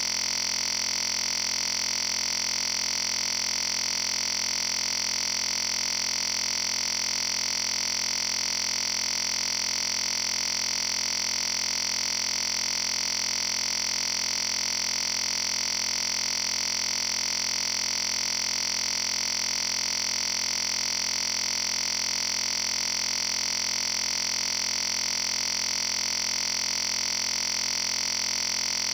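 Steady electronic hiss with a high whine in it, constant in pitch and level and never changing: noise on the audio feed rather than room sound.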